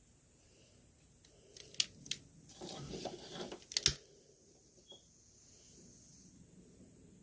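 Small parts being handled while heat-shrink tubing is worked onto a loose wire: a few sharp clicks, a short rustling scrape, then a louder click a little before the middle.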